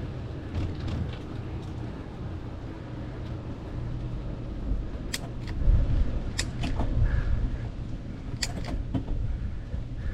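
Bicycle riding along a paved trail: a steady low rumble of tyres and wind, with several sharp clicks and rattles from the bike about halfway through and again near the end.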